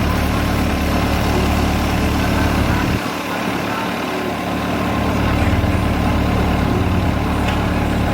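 Heavy engine idling steadily, a low drone with a brief drop in its deepest rumble about three seconds in.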